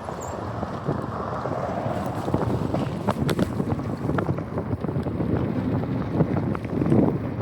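Wind buffeting the microphone of a camera on a moving bicycle, a steady rough rumble with scattered small clicks and knocks from the bike over the road.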